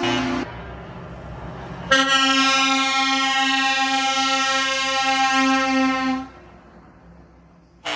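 Truck air horns: the end of one blast, then a single long, steady blast of about four seconds, and another blast starting just at the end, with a low truck engine rumble in the gaps.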